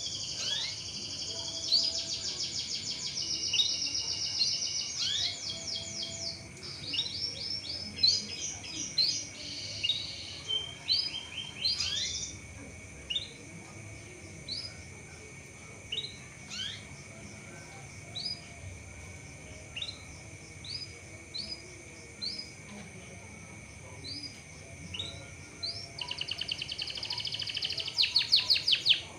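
Canary song: fast, dense trills for the first dozen seconds, then single short rising 'cuit' chirps about once a second, and another fast trill near the end. A faint steady high-pitched tone runs underneath.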